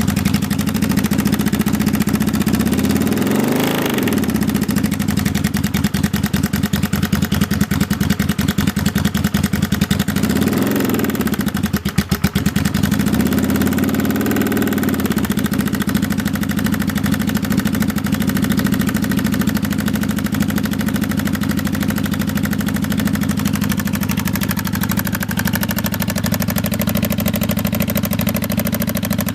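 1995 Kawasaki Vulcan 750's V-twin engine idling, blipped up in revs and back down three times, around 4, 11 and 14 seconds in. Through it runs a persistent unidentified engine noise that the owner first blamed on the cam chain tensioners, but that continues with new manual tensioners fitted.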